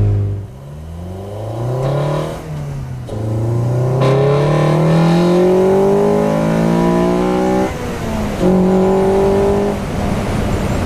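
2011 Honda Civic Si's 2.0-litre four-cylinder engine, breathing through an Invidia Q300 cat-back exhaust, Skunk2 header and Hybrid Racing intake, accelerating through the gears. The revs fall just after the start, climb, dip briefly, then rise in a long steady pull. The pitch drops sharply at a gear change about three-quarters of the way through, holds steadier, and eases off near the end.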